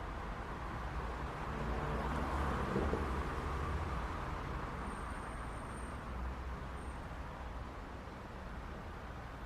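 City street traffic: a steady rumble of cars running by, swelling as a vehicle passes close about two to three seconds in, then settling back.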